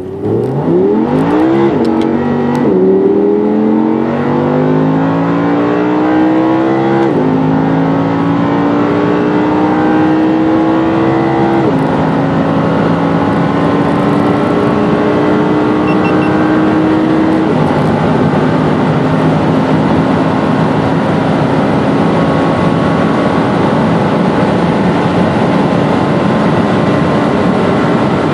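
Audi R8's 5.2-litre V10 under full-throttle acceleration from a standstill. The engine note climbs and drops back at each upshift, about five times, each gear lasting longer than the one before. It ends in a long, slow climb in a high gear.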